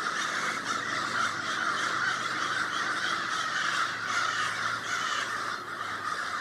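A huge flock of birds calling all at once, a dense, unbroken din of overlapping calls.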